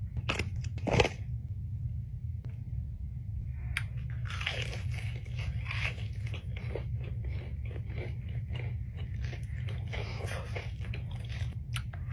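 Close-miked eating: a crunchy bite about a second in, then steady crunchy chewing from about four seconds in, over a steady low hum.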